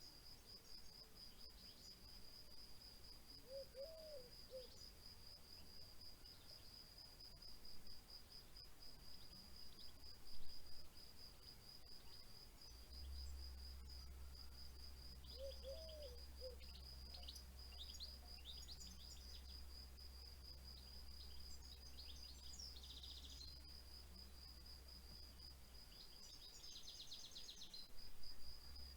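Faint nature soundscape: an insect, likely a cricket, chirping in a steady rapid pulse throughout, with birds chirping and trilling from about halfway. A short low call sounds twice.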